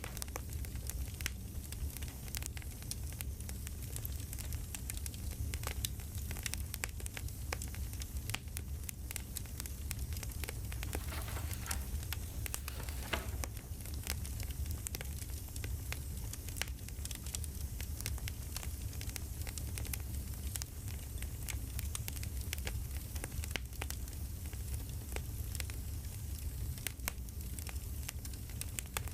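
Campfire crackling: irregular pops and snaps over a steady low rumble.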